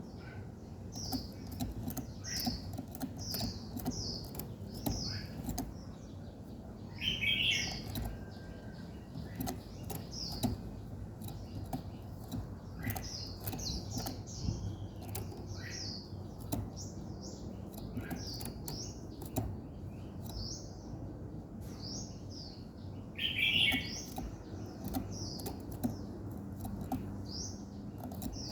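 Small birds chirping in runs of short, high repeated notes, with a louder, lower call twice, about seven seconds in and again about twenty-three seconds in. Faint clicks and a steady low rumble sit underneath.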